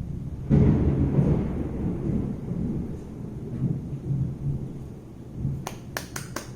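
Thunder: a sudden crack about half a second in, followed by a long low rumble that slowly dies away. A few sharp clicks come near the end.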